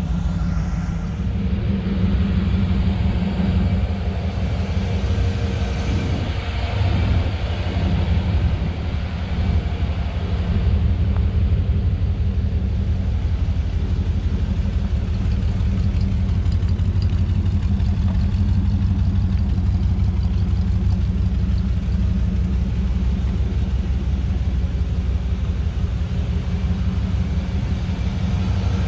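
The 350 V8 of a 1957 Chevrolet 3100 pickup running steadily with a low rumble.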